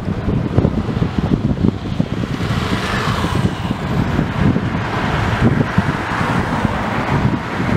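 Busy city street traffic passing, with wind rumbling on the microphone. Louder passes swell about three seconds in and again around five to six seconds.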